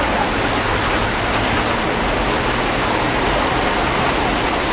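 Heavy rain falling steadily on floodwater, an even hiss that neither rises nor falls.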